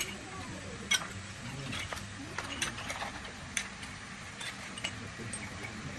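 Sparse, irregular light clicks and clinks of hand tools and engine parts being handled during a tractor engine rebuild, over a low steady hum.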